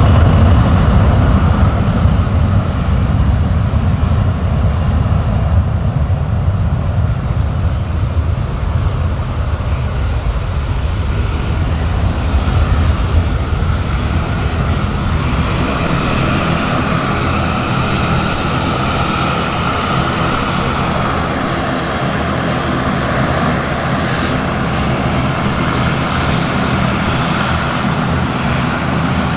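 Aircraft engines running at an airport: a heavy, loud rumble that eases over the first ten seconds or so, then settles into a steadier hum with faint high steady tones from about halfway through.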